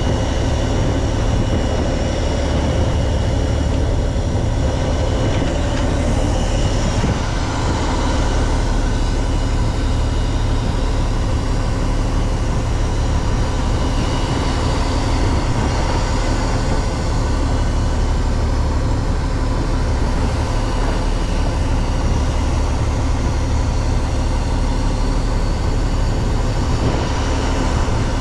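Fishing boat's engine running steadily: a loud, even low hum that does not change, with faint steady whining tones above it.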